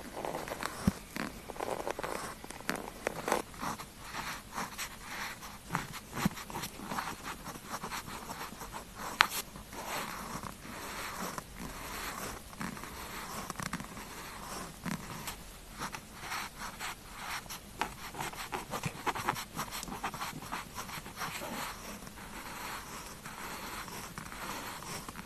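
Pen nib scratching across paper in quick, continuous handwriting strokes, with one sharper click about nine seconds in.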